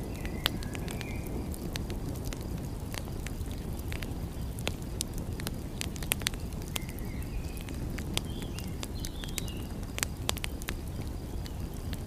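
Wood fire crackling, with frequent sharp pops scattered irregularly over a steady low rumble. Short bird chirps come in briefly near the start and again twice in the second half.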